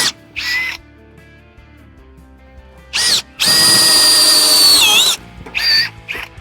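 Electric drill run in short on-off bursts, boring plug-weld holes in sheet metal. A high motor whine with one longer run whose pitch sags near its end as the bit loads up. Background music plays underneath.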